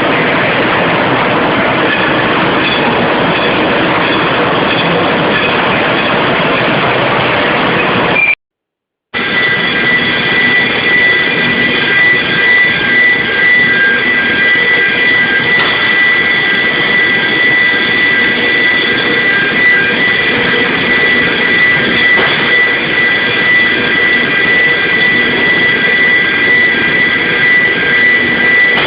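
Loud, steady roar of industrial plant machinery, with a high steady whine over it after a brief cut-out about eight seconds in.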